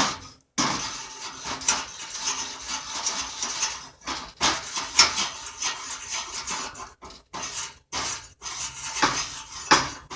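Electric welding arc crackling and sizzling as a bead is run, in several stretches with short breaks between them.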